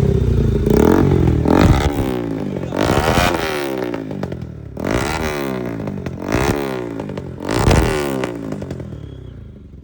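Superbike engine revving in repeated surges, the pitch climbing and dropping with each blip of the throttle, then dying away near the end.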